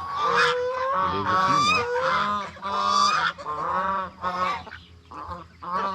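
Geese honking repeatedly, with several calls overlapping for the first half and shorter, sparser honks after that.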